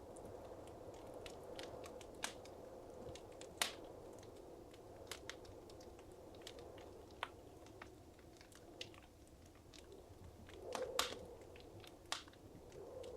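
Wood fire crackling in a fireplace: irregular sharp snaps and pops over a soft, steady hiss of flames, with a brief swell of flame noise near the end.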